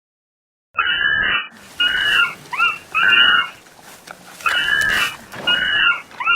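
An animal giving a series of about seven short, loud calls in quick succession, starting about a second in.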